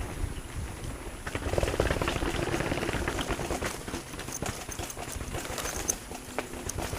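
Mountain bike rolling over a rough, rocky dirt trail: tyres crunching over dirt and stones with a rapid, uneven clatter of knocks from the bike's frame, chain and wheels.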